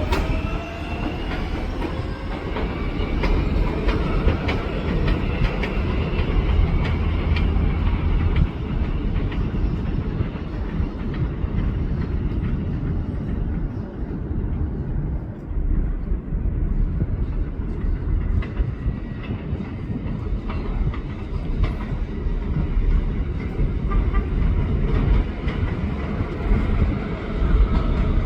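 7-line R188 subway train on the elevated Flushing Line, its motors whining up in pitch in the first couple of seconds as it pulls away, then a steady rumble with clicking of wheels over the rail joints.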